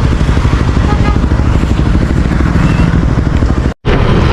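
Motorcycle ride: engine running under loud, fluttering wind noise on the microphone. The sound cuts out completely for a moment near the end.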